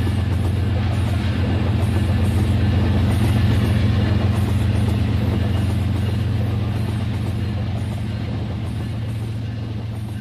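RailKing model train running along its track: a steady low hum that grows louder, then fades away as it passes.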